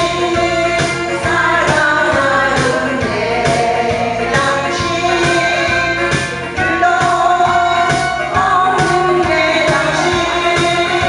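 A song sung over backing music with a steady beat.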